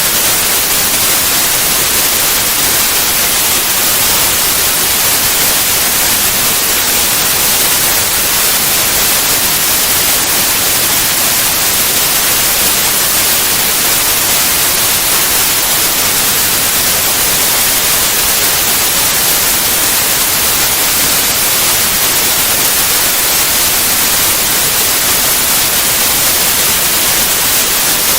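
Steady white noise, an even hiss with no changes.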